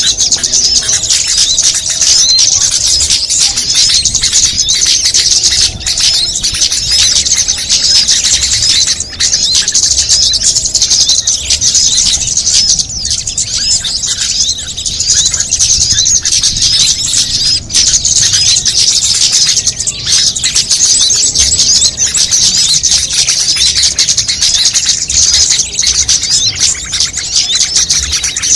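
A dense, unbroken chorus of high-pitched twittering and chirping from many small songbirds layered together: a mixed bird-lure (pikat) recording of small bird calls.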